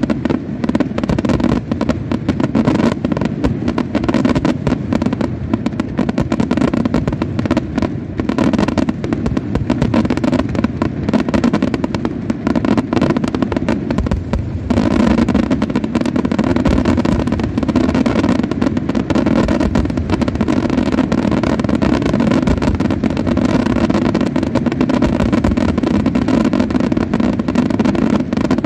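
Professional aerial fireworks display in a dense, continuous barrage: shell bursts and fanned comet volleys bang and crackle over one another with no gaps. The barrage thins briefly about halfway, then comes back as heavy as before.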